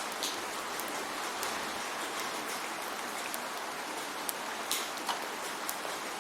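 Steady rain falling, an even hiss with scattered individual drops ticking sharply on a nearby surface.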